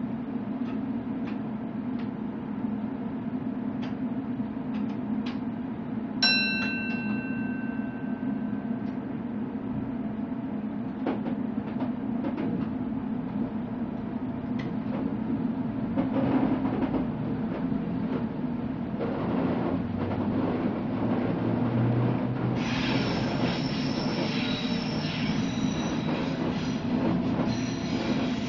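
Electric suburban train running on the rails: a steady low hum with irregular clicks of the wheels over rail joints. About six seconds in comes a single sharp metallic clang that rings on for about two seconds. From about two-thirds of the way through, the wheels squeal with high-pitched tones.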